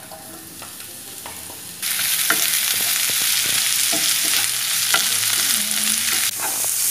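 Sliced bitter melon (ampalaya) frying in hot oil with garlic in a nonstick pan: loud sizzling starts suddenly about two seconds in and carries on while a wooden spatula stirs, with short clicks and scrapes against the pan.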